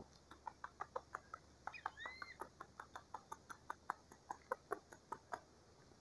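A hungry young bird's bill clicking faintly and quickly, several clicks a second, as it pecks at a man's lips to be fed. A short rising-then-falling chirp comes about two seconds in.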